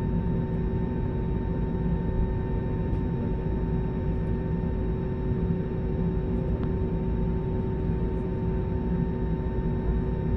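Airliner cabin noise: a steady low rumble with several constant humming tones over it.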